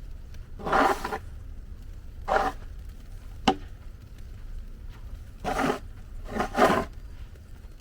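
Four short scraping noises, irregularly spaced, with one sharp click between them, over a low steady rumble.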